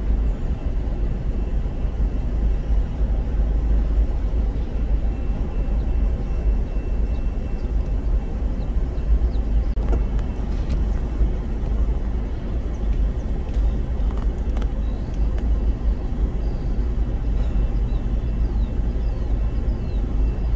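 Freight train of covered hopper cars rolling past: a steady low rumble of wheels on the rails, heard from inside a car.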